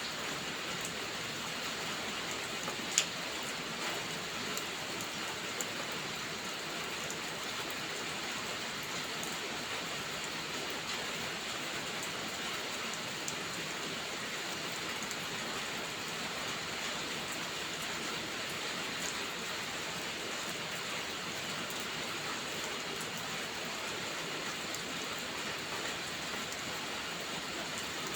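Steady rainfall, an even hiss of rain on surfaces. A few sharp clicks cut through it, one much louder about three seconds in.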